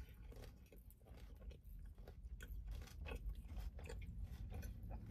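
A person chewing a mouthful of spider hand roll with tempura-fried soft-shell crab: faint, irregular crunches in quick succession.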